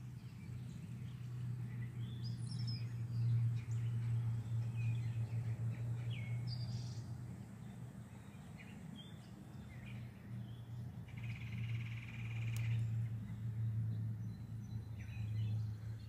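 Backyard songbirds giving scattered short chirps, with one dense buzzy trill lasting about two seconds starting around eleven seconds in. Under them runs a louder constant low hum that swells and fades.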